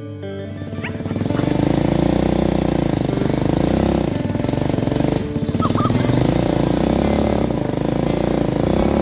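A small engine running steadily at close range, its pitch wavering slightly up and down, with a short dip about five seconds in.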